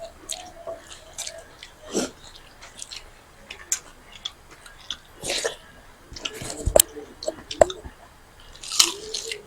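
Close-up eating sounds: wet chewing, bites and crunches in an irregular run. Two sharp knocks come in the second half.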